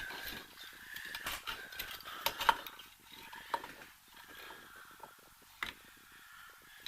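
Scattered small metallic clicks and knocks of rear drum-brake parts being handled and fitted by hand, the sharpest about two and a half seconds in.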